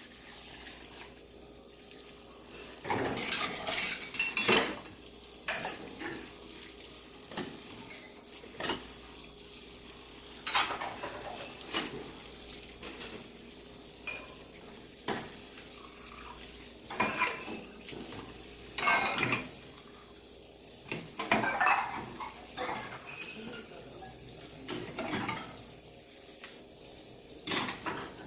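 Earthenware ttukbaegi pots clattering and knocking as they are handled at a commercial ultrasonic cleaner: about ten irregular clanks, some in quick clusters, over a steady faint high-pitched whine.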